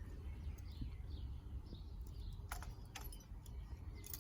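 Faint soft chirps from a pet parrot, with two sharp clicks about half a second apart a little past halfway.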